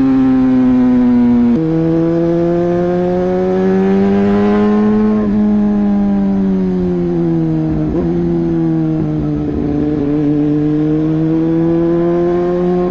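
Hero XPulse 200 4V's single-cylinder engine pulling the bike along, its pitch climbing slowly and dropping sharply at three gear changes.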